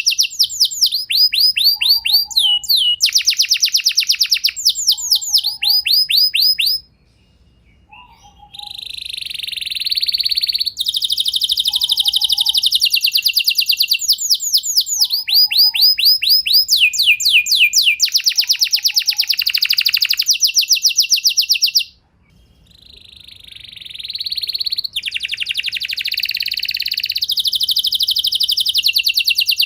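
Canary singing a long, fast song of rapid descending trilled phrases with buzzy rolls between them, breaking off briefly about seven seconds in and again about twenty-two seconds in.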